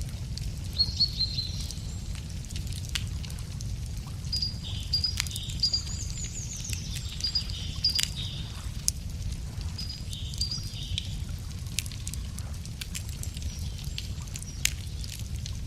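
Wood fire crackling with scattered sharp pops over a steady low rumble, while a songbird sings short, repeated high phrases several times.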